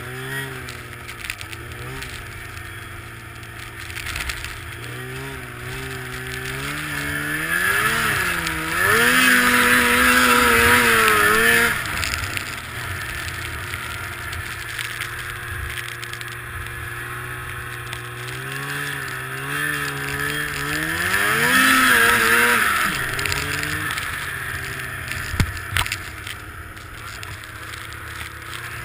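Snowmobile engine revving up twice with a rising pitch, loudest from about eight to twelve seconds in and again around twenty-two seconds, settling back to a lower steady run in between. A single sharp knock comes about twenty-five seconds in.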